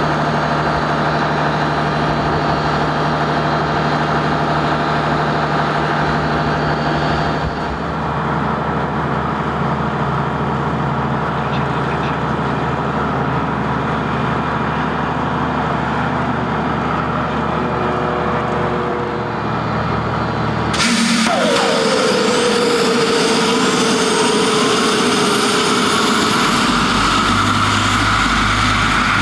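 Avro Vulcan's Rolls-Royce Olympus jet engines running steadily. About two-thirds of the way in the sound changes abruptly to a louder turbine whine, with one tone falling in pitch and higher tones rising.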